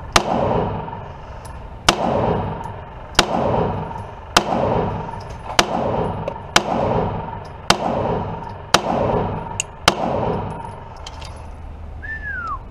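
CZ TS2 9mm pistol firing a string of nine shots, roughly one a second. Each shot is followed by a ringing, clanging tail.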